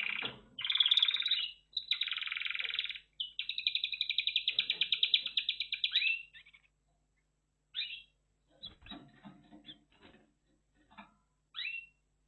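Red factor canary singing: dense phrases of fast, rolling trills for about six seconds, then only a few short chirps, with some faint soft knocks between them.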